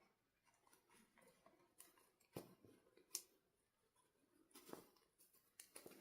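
Near silence broken by a few faint, scattered clicks and taps, with a small cluster of them near the end.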